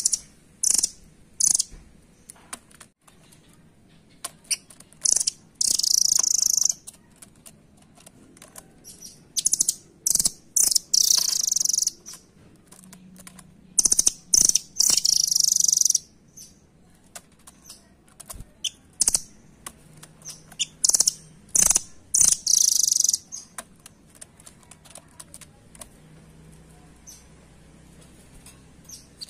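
Velvet-fronted nuthatch (rambatan) calling: sharp high chips and several rapid, rattling trills of a second or two each, with light ticks in between.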